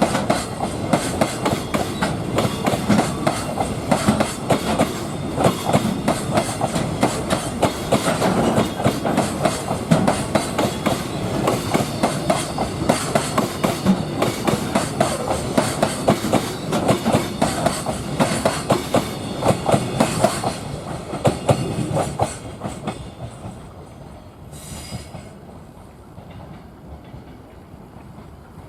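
Container freight wagons rolling past, their wheels clattering rapidly over rail joints. The clatter dies away about 22 seconds in as the end of the train goes by.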